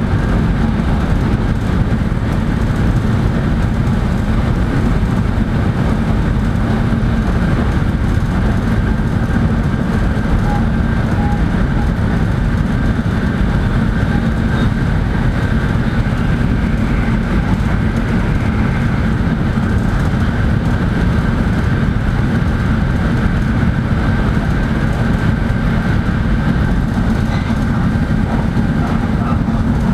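Shinkansen running noise heard inside the passenger car: a loud, steady low rumble with a constant low hum and a faint higher whine above it.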